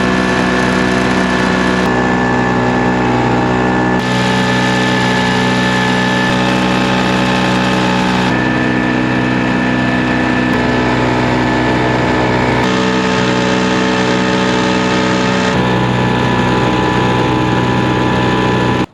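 7.5 horsepower outboard motor on a jon boat running steadily: a loud engine drone of stacked steady tones, a little loud. Its tone and mix change abruptly several times, and it cuts off suddenly at the end.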